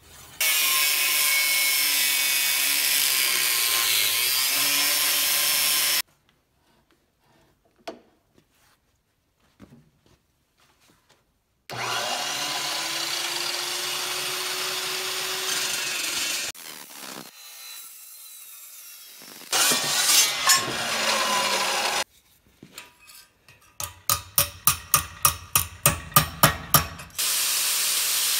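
Power tools working steel in several separate bursts. Each burst is a loud, steady rush that starts and stops abruptly, with quiet gaps between them. Near the end comes a quick run of about a dozen sharp strikes, about four a second.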